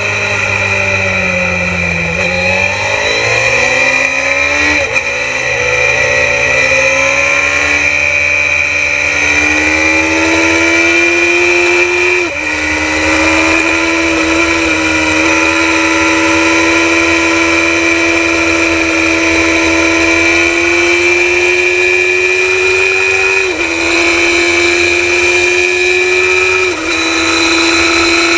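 Suzuki GSX-R750 racing motorcycle's inline-four engine, heard onboard at race pace. The engine note falls for the first two seconds or so while cornering, then climbs hard through the gears, with upshifts about 5, 12, 24 and 27 seconds in. A steady high whine sits over the engine the whole time.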